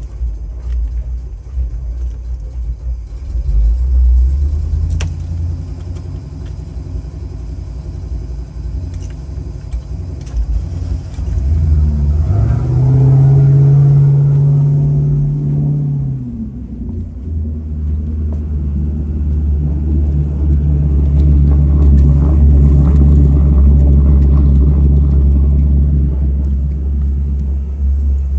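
1987 Sea Ray 39 ft cruiser's engine running with a deep, steady rumble. About twelve seconds in it is revved up, held briefly and let back down. It then settles into a heavier steady run.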